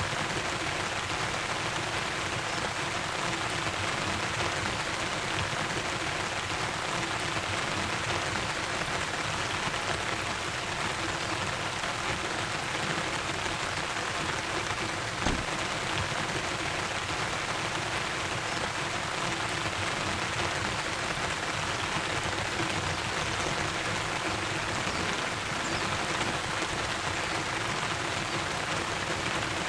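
Heavy typhoon rain falling steadily and densely, with one brief knock about halfway through.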